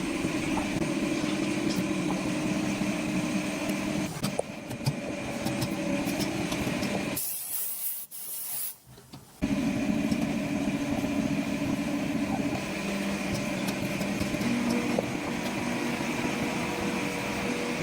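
Factory machinery running with a steady hum and hiss. It drops out for about two seconds around seven seconds in, with a short hiss at the start of the gap, then starts again.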